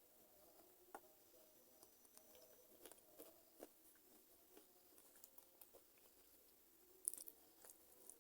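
Chicken feet being chewed: faint, scattered wet clicks and smacks, with one sharper click about seven seconds in.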